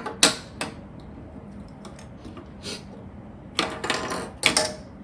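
Plastic Lego pieces clicking and rattling as they are handled and pressed into place: two sharp clicks near the start, then a run of clicks and rattles in the last second and a half.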